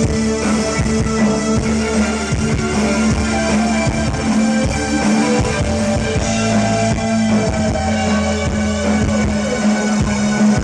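A live new wave band playing, with electric guitar and a drum kit over a long held low note.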